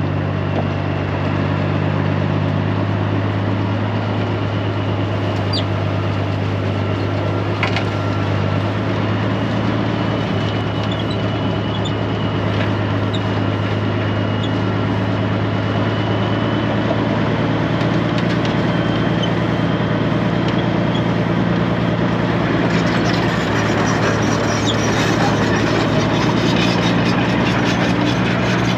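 Straight-piped Peterbilt 389 semi truck's diesel engine running as the truck is driven slowly, a steady low drone whose pitch shifts a few times.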